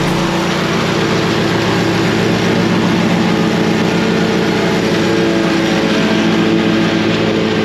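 Engine running steadily at a constant speed, with a steady hum.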